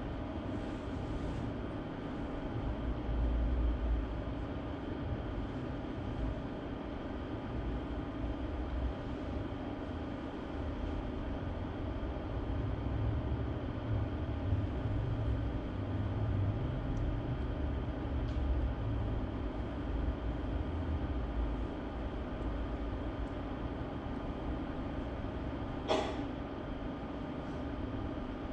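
Steady low rumble and hum of room background noise, with a single sharp click near the end.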